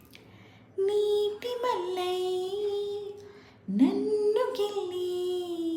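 A woman singing two long, held phrases of a Telugu song, each sliding up into a sustained note, with a short breath between them.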